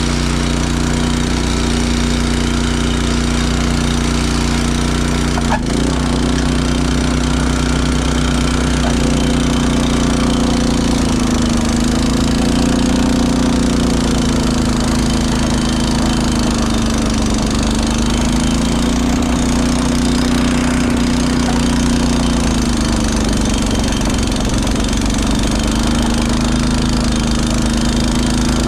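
Honda snowblower engine running steadily, its pitch sagging and recovering every few seconds. A single sharp click about five and a half seconds in.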